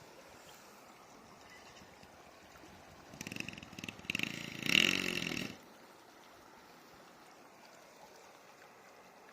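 Steady faint rush of a flowing river, broken about three seconds in by a louder pitched call or voice lasting about two seconds.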